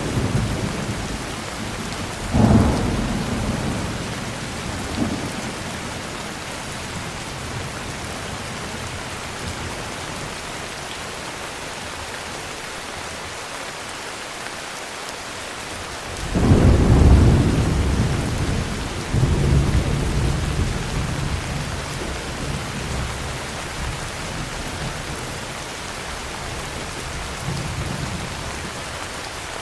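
Heavy rain falling steadily, with thunder: a sharp clap about two and a half seconds in and a small one shortly after, then past halfway a long rolling peal that swells twice and rumbles on for several seconds before fading, and a faint last rumble near the end.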